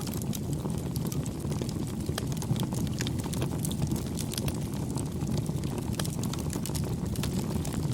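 Wood campfire burning: a steady low rush of flames with frequent irregular crackles and snaps.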